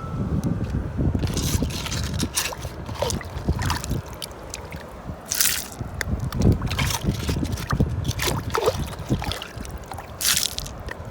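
Water sloshing and gurgling, with irregular splashes.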